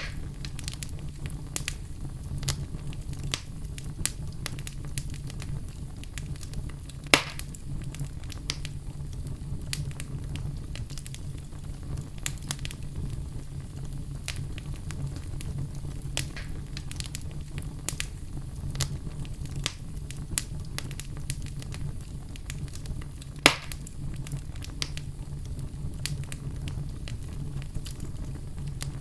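Wood fire burning in a fireplace: a steady low rumble under constant small crackles, with two louder sharp pops, one about seven seconds in and one near twenty-three seconds.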